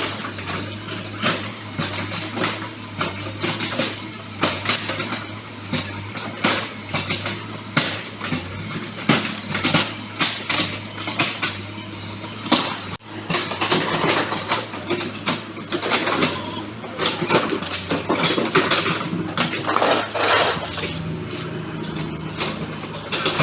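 Excavator engine running steadily under irregular metallic clanking and rattling as the machine works.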